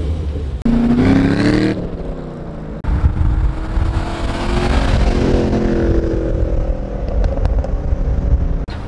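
Chevrolet Camaro SS V8 engine accelerating past in a few cut-together shots: the engine note climbs in pitch about a second in, then after a sudden cut a second pass swells and falls away.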